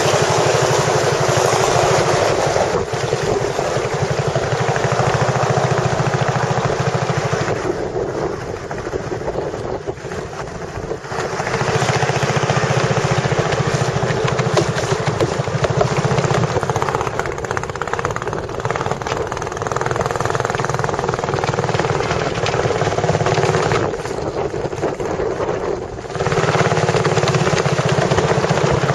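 A motorboat engine running steadily under way, with water and wind noise; it eases off briefly twice, about eight seconds in and again near twenty-four seconds.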